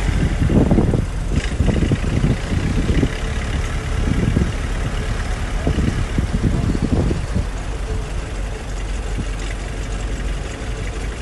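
Heavy machinery diesel engine running, with uneven surges for the first seven seconds or so, then settling to a steadier sound.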